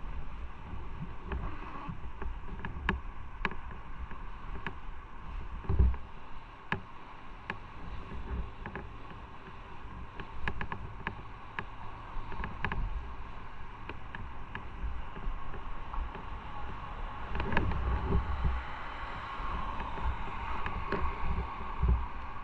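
Motorcycle on the move: wind buffeting the microphone over the engine and road noise, with scattered small ticks.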